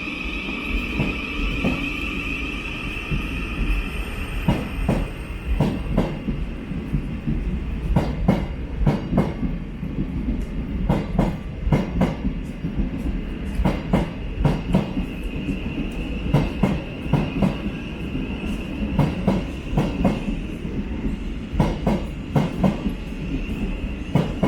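Thameslink Class 700 electric multiple unit pulling out of the platform. An electric whine from its traction motors at the start fades away, and the wheels then clatter over rail joints and points in repeated groups of sharp clicks over a steady low rumble.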